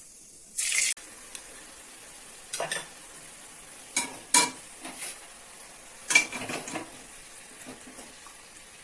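Onion paste sizzling in hot mustard oil in a kadai, with a steady frying hiss, while a spatula scrapes and clinks against the pan in several short bursts.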